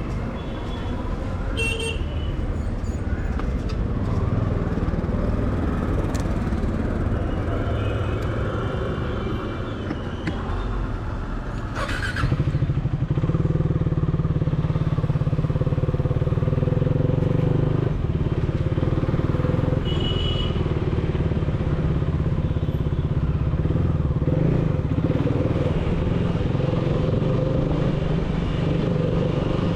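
A KTM Duke 390's single-cylinder engine running through an aftermarket dual exhaust while riding. About twelve seconds in it gets louder and settles into a steady, stronger drone.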